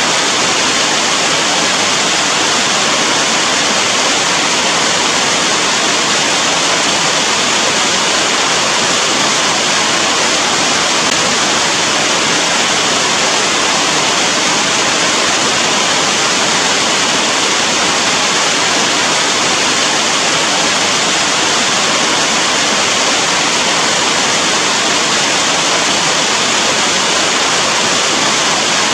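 Steady heavy rain: a dense, even hiss with no separate drops or pauses standing out.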